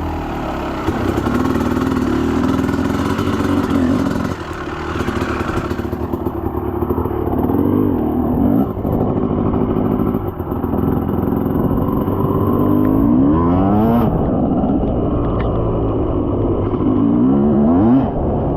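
Dirt bike engine running, its revs rising and falling several times, with a hiss over the first few seconds.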